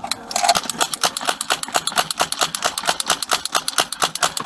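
Fast, even run of thuds and rattles, about six a second: an officer running with his gear jostling against the body-worn camera.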